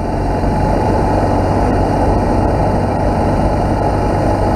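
BMW R1200GS boxer-twin engine running at a steady cruise, with wind and tyre noise from riding a graded dirt road.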